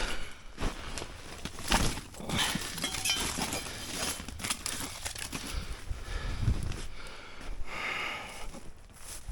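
Irregular rustling and crinkling of things being handled, with scattered knocks and snaps.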